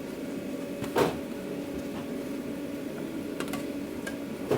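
Steady hum of the food truck's kitchen equipment, with a sharp knock about a second in, another near the end, and a few light clicks between, as takeout containers are handled and packed.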